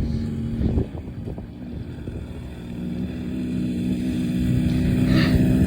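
Dirt bike engine running at a steady pitch, with a few knocks in the first second or so, then growing louder over the last few seconds.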